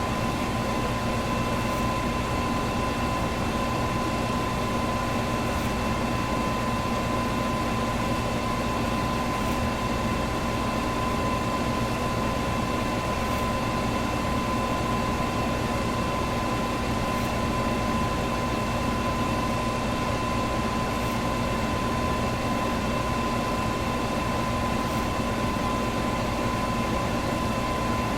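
Electric fan running steadily: an even rush of moving air with a steady motor hum and a thin whine on top, and a faint tick about every four seconds.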